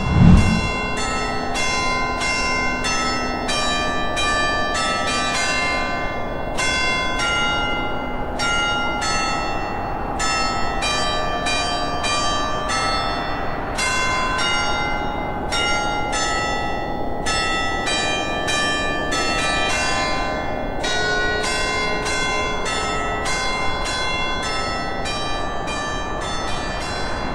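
Church bells pealing, several bells at different pitches struck in quick, uneven succession over a steady background rush. A low thump right at the start is the loudest sound.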